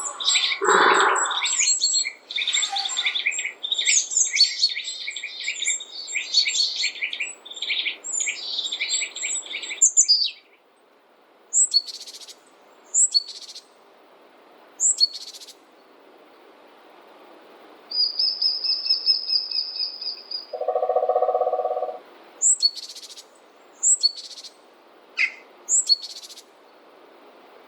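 Forest songbirds singing and calling. A dense, fast twittering chatter fills the first ten seconds or so. After it come single sharp down-slurred chirps every second or two, a buzzy trill, and a short low buzzy call about two-thirds of the way through, over a faint steady hiss.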